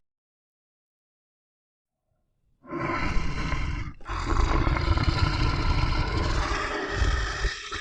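Silence for about two and a half seconds, then a large wild animal roaring: one call of about a second and a half, a brief break, then a longer call lasting over three seconds.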